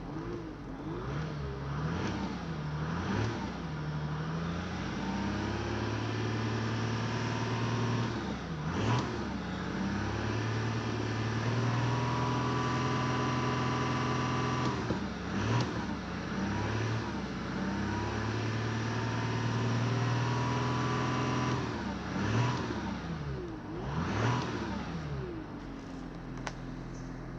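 2018 VW Amarok's 3.0 L V6 turbo diesel running and being revved again and again: quick blips and several revs held for a few seconds, dropping back to a steady idle near the end.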